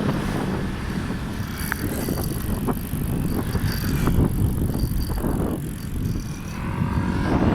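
Wind buffeting the microphone and road rumble from a bicycle in motion, with a few light clicks.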